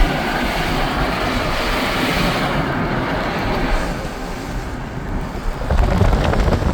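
Road noise inside a moving car on a wet road: a steady tyre hiss and rumble, the hiss easing about three seconds in and the rumble growing louder near the end.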